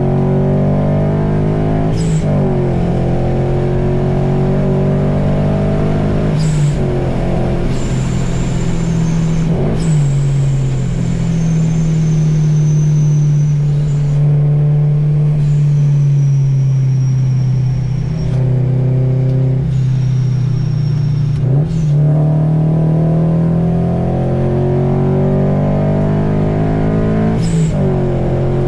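Subaru BRZ's 2.0-litre flat-four engine heard from inside the cabin, driven hard: its note climbs and drops with throttle and gear changes, breaking sharply about five times.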